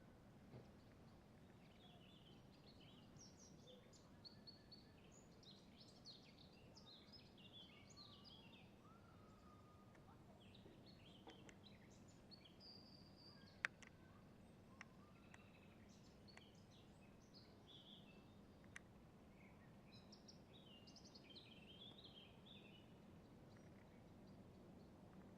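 Faint chirping and trilling of several small songbirds, with a few sharp clicks, one louder than the rest about halfway through.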